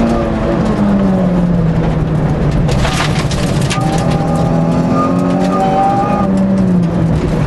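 Race car engine heard from inside the cabin, pulling and easing off through the bends: its note falls over the first couple of seconds, a brief rush of noise comes about three seconds in, then the note climbs again and drops near the end.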